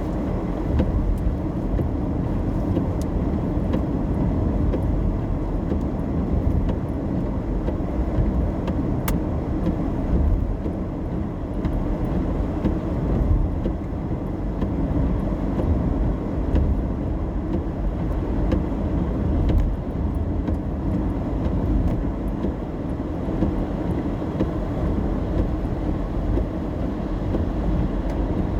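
Steady low road and engine rumble heard from inside a moving car's cabin, with a few faint ticks over it.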